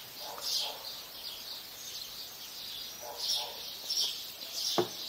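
Small birds chirping repeatedly in short high calls, with a single sharp click near the end.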